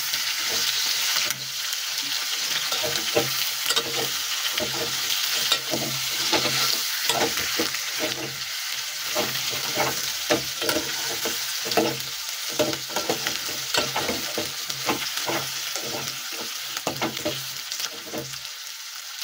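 Chicken pieces and chopped capsicum sizzling in a stainless steel pot while a metal spoon stirs them, scraping and clinking against the pot's sides. The stirring stops near the end while the sizzling goes on.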